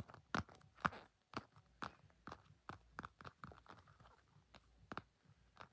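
Tapping on a tennis ball: a run of short, light taps, about two to three a second.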